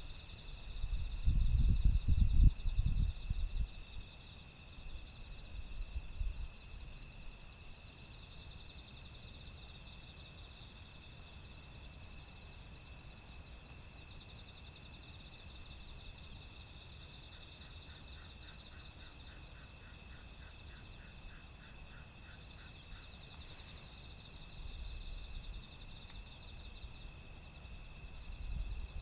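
A chorus of crickets and other insects chirring steadily in several overlapping high pitches, with a lower pulsing trill joining in about halfway through. Loud low rumbles sound in the first few seconds.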